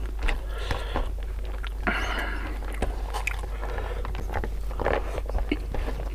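Close-miked eating: a man chewing mouthfuls of rice and spicy beef tongue eaten by hand, with wet lip smacks and mouth clicks throughout.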